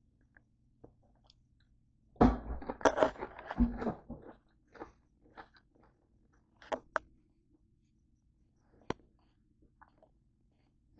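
A person biting into and chewing a crisp chip with ranch. A loud burst of crunching starts about two seconds in and lasts about two seconds, followed by a few softer, scattered crunches.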